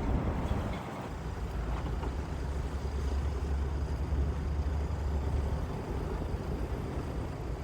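Steady low rumble of road vehicles, with no clear single event standing out.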